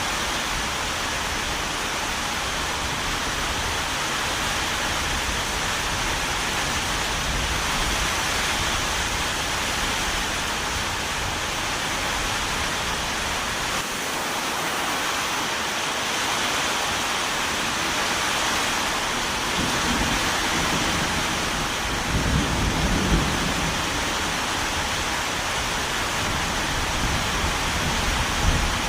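Steady rain hissing evenly, with low rumbles swelling up about two-thirds of the way in and again just before the end, in the manner of thunder.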